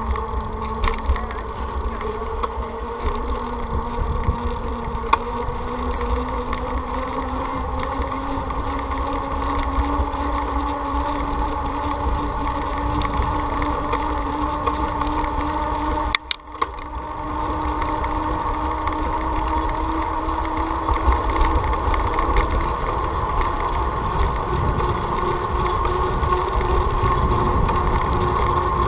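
Riding on a road: wind rumbling on the microphone over a motor's hum that rises slowly in pitch, with a brief drop-out about two-thirds of the way through.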